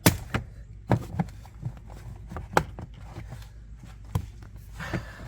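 Plastic interior trim panel being pried and worked at its clips: a handful of scattered sharp clicks and knocks, the loudest right at the start, with a short rustle near the end.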